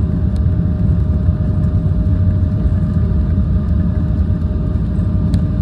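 Airliner cabin noise: the steady low rumble of engines and rushing air heard from inside the cabin, with a faint steady whine and a few light clicks.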